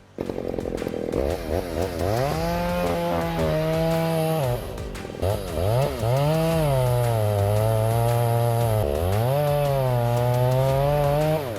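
Two-stroke chainsaw revving at high throttle. Its pitch holds high, drops briefly twice and climbs back, then falls away near the end.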